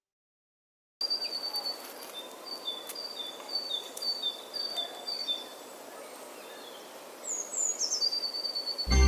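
Outdoor ambience of small birds chirping over a steady background hiss: a short high chirp repeated about twice a second, then a falling call into a held note near the end. Keyboard music cuts in at the very end.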